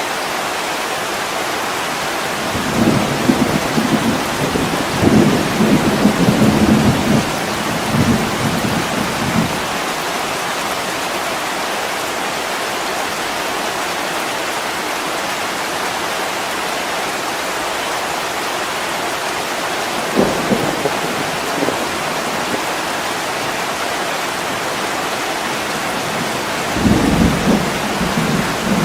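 Heavy rain pouring steadily on a window pane, with low rolls of thunder: a long rumble from about three seconds in, a short one around twenty seconds, and another near the end.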